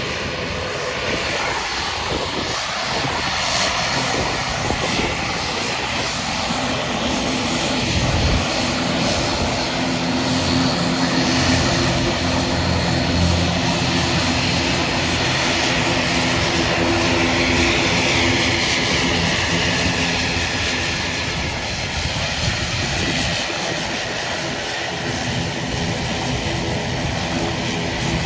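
Fixed-wing aircraft engines running loud and steady: a rushing noise with a steady low hum of several tones under it.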